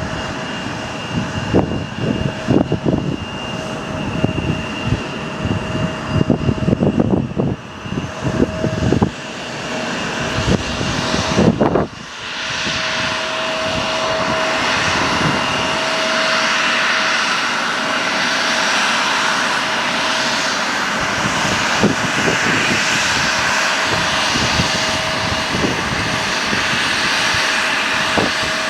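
Wind buffeting the microphone in gusts for the first twelve seconds or so. Then an airplane's engines run steadily and louder, with a steady whine over the noise.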